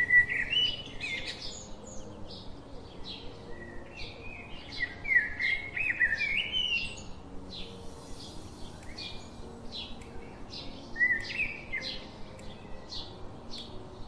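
Small birds chirping and twittering in high, quick calls that slide in pitch, with a string of short chips about twice a second. The chirping comes in bunches at the start, for a few seconds in the middle, and again near the end.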